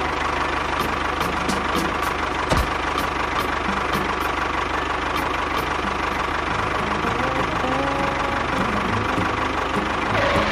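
Tractor engine running steadily at idle with an even, rapid knocking beat.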